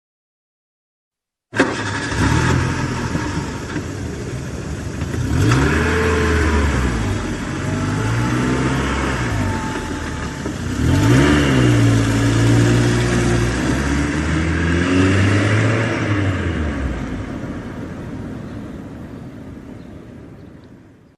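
Car engine cutting in suddenly about a second and a half in, its pitch climbing and dropping back several times as it accelerates, then fading away near the end.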